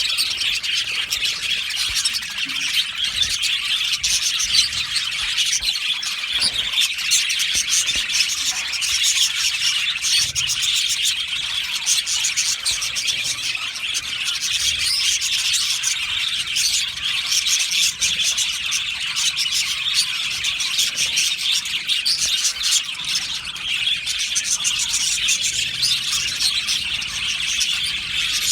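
Many budgerigars (budgies) in an aviary colony chirping and chattering together in a dense, continuous chorus.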